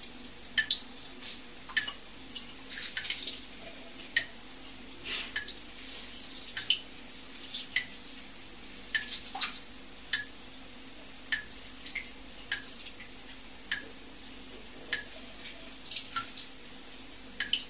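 A run of short, light clicks or drip-like taps, irregular, about one or two a second, over a faint steady hum.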